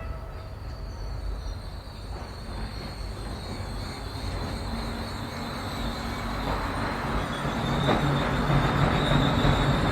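Model train running on the layout's track, a steady rumble with a high electric-motor whine, growing louder as it approaches.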